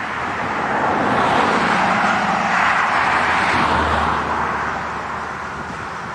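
A vehicle passing close by: an even rushing noise that swells, peaks a few seconds in with a low hum, and fades away.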